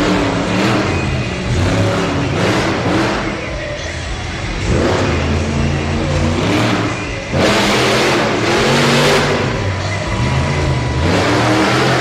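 Monster truck engine revving hard again and again, its pitch climbing and dropping, with a sudden louder surge about seven seconds in.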